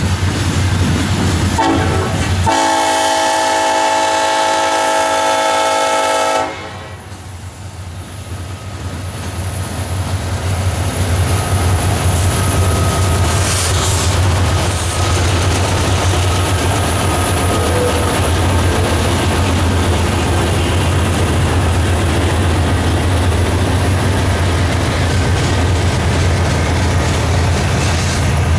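A locomotive's multi-chime air horn sounds a short blast and then a long one, a chord of several steady tones that cuts off sharply. A train then rolls past with a steady rumble and wheels clicking over the rail joints.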